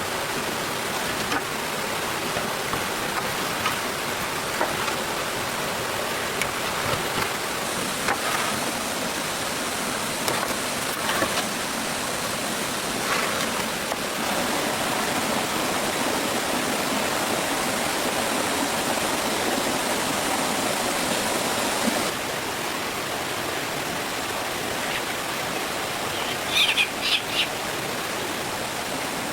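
Steady rushing noise, with a few soft knocks scattered through it and a short run of high chirps near the end.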